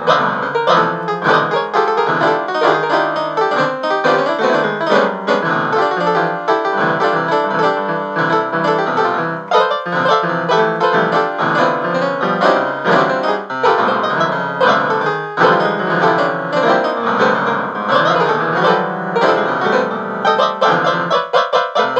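Piano music, with many notes played in quick succession.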